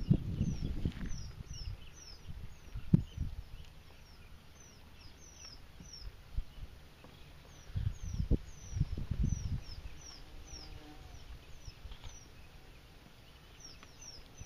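A bird gives a long series of high, thin, falling chirps, one or two a second. Louder low rustles and knocks come at the start, as a sharp knock about three seconds in, and again around eight to nine seconds.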